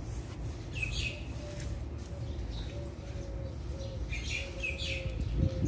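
Small birds chirping in short calls, once about a second in and several times near the end, over a steady low background rumble.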